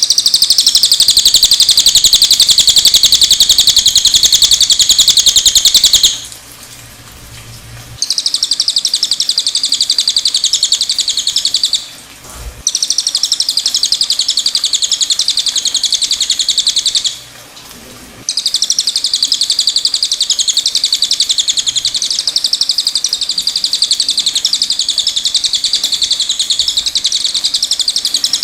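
Cililin (Javan hanging parrot) singing a loud, very fast, high-pitched trilling chatter in long unbroken phrases, pausing briefly three times.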